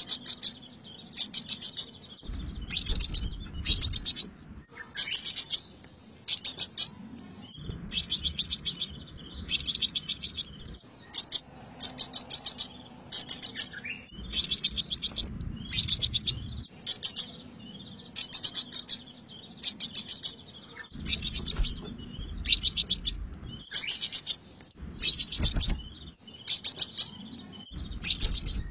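Sunbird calling: short bursts of rapid, sharp, high-pitched chirps, repeated again and again with brief pauses.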